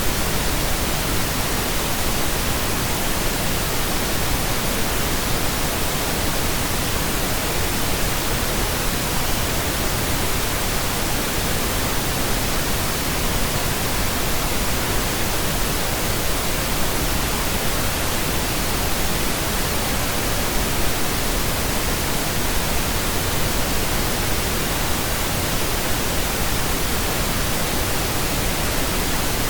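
Steady synthetic pink noise: an even, unbroken hiss spread across the whole range, with no changes and no audible music.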